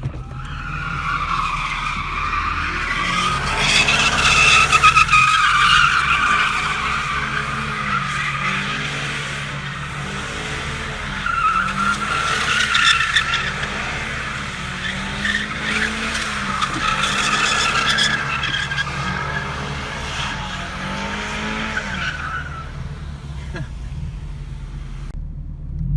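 Ford Mustang GT's V8 engine revving up and down in waves while its tyres squeal in long, wavering stretches as the car slides under power. The squeal is loudest a few seconds in and again around the middle, then fades out a few seconds before the end.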